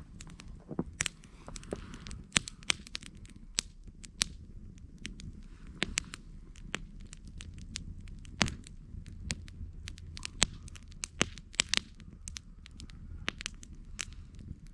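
Wood campfire crackling, with many sharp, irregular pops and snaps over a low, steady rumble.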